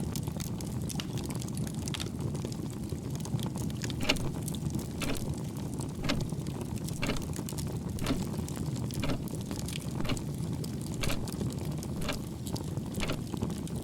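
Steady low rumble of room ambience with a sharp tick about once a second.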